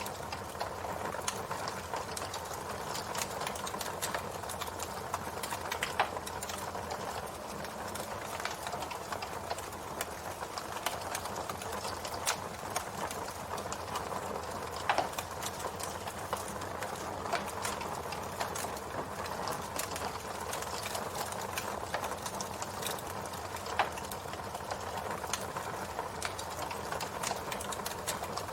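Wood campfire burning, with steady crackling and frequent small snaps, and a few louder pops at intervals of about nine seconds.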